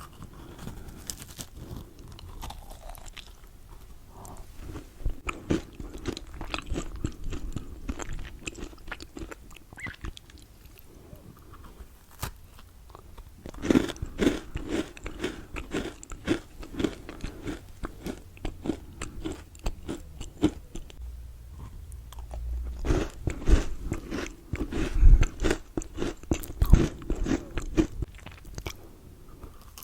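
Close-miked biting and chewing of Milka chocolate: sharp crunches and mouth sounds, coming in three spells of chewing with short pauses between.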